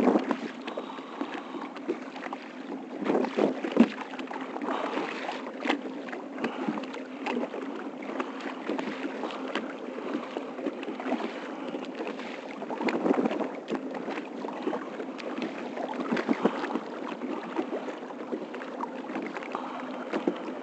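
Water splashing and lapping around a kayak on the move, with irregular paddle splashes and a few sharper knocks.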